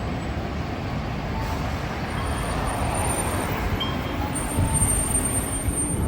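Nissan Diesel Space Runner city bus's diesel engine and running noise heard inside the passenger cabin as the bus pulls away, a steady rumble that grows slightly louder.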